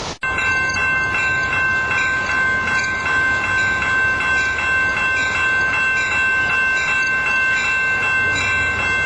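Railway warning bell ringing rapidly and steadily, about three strikes a second, over a low rumble as a San Joaquin train approaches the platform.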